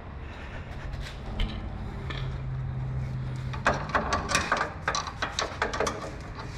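A steady low hum, then about a dozen irregular sharp clicks and knocks over two seconds from hand tools working on the truck's rear shock mounting.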